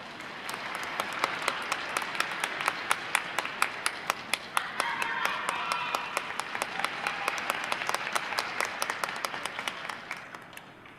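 Audience in an ice rink applauding, with many sharp individual claps standing out close by. The applause swells about half a second in and fades out near the end.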